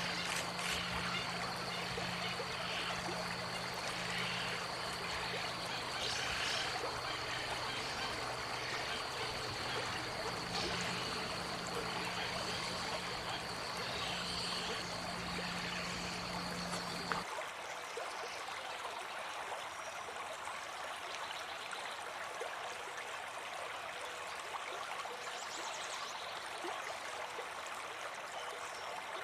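Steady running water of a stream, with a continuous high-pitched whine and a low hum over it that cut off together about two thirds of the way through, leaving a thinner water sound.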